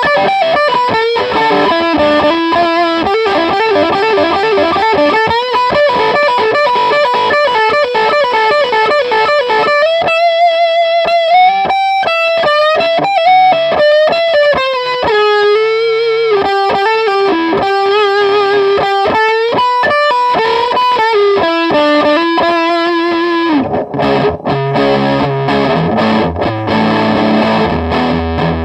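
Electric guitar played through a Donner Dark Mouse RAT-style distortion pedal into a Marshall Valve State amp, gain turned up. It starts with quick single-note lead runs, moves to long held notes with wide vibrato, and about 23 seconds in changes to low distorted chords.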